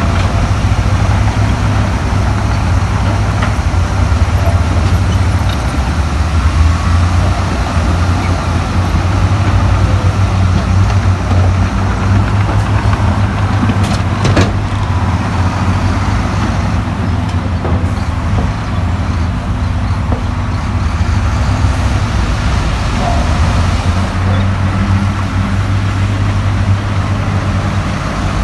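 Heavy diesel earthmoving machinery running steadily under load, with a deep engine drone and the clatter of metal and rock over it. A single sharp knock about halfway through.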